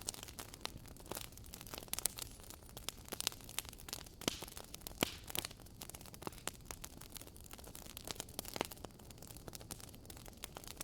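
Campfire burning with irregular crackles and pops over a soft steady hiss, a few sharper pops standing out.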